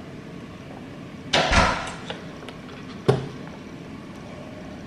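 A door moved with a brief sliding swish about a second and a half in, then a single sharp knock about three seconds in.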